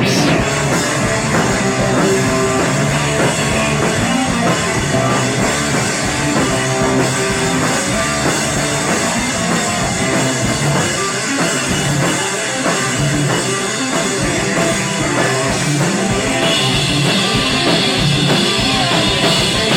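Live rock band playing an instrumental passage with electric guitars, bass and a full drum kit, cymbals brightening about three quarters of the way through.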